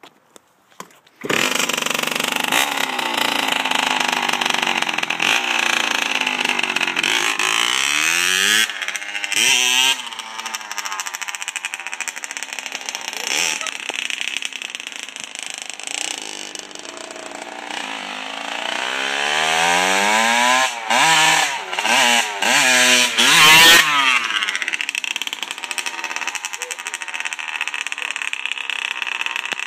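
1999 Kawasaki KX60's 60cc two-stroke single-cylinder engine starting about a second in, then running and being revved repeatedly, its pitch rising and falling.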